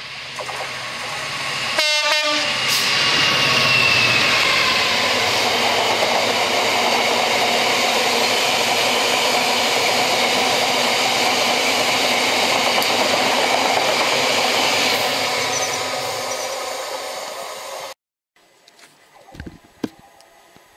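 A GB Railfreight Class 66 diesel locomotive sounds a short horn blast about two seconds in, then it and its train of box wagons pass close by, with loud, steady wheel-on-rail noise and clatter that cuts off suddenly near the end.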